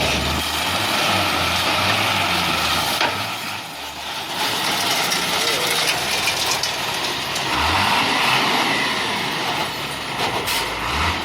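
A heavy diesel vehicle engine running steadily with a low rumble, with a brief dip in level about four seconds in.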